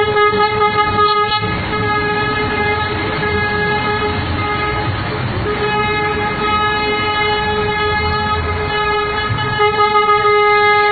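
Bus air horn sounding one long steady blast, broken briefly about halfway, over a low engine rumble.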